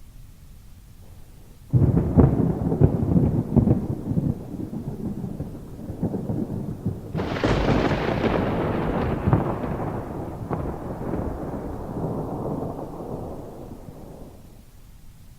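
Thunder: a sudden crackling clap about two seconds in, then a second, sharper crack a few seconds later that rolls off into a long fading rumble, over steady rain.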